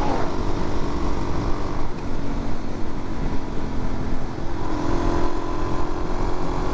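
Suzuki DR-Z400's single-cylinder four-stroke engine running steadily at cruising speed, with wind rushing over the microphone.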